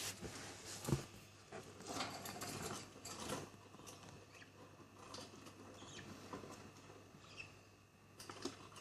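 Faint scattered clicks and scratches from budgies moving about in their cage, a little busier in the first few seconds.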